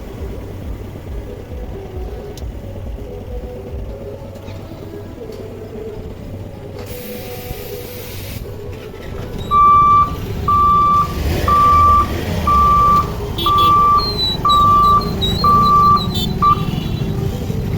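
An electronic warning beeper sounds eight even, high, single-pitch beeps, about half a second each and roughly one a second, starting about ten seconds in and stopping near the end. Under them runs a steady low rumble of traffic or a passing train.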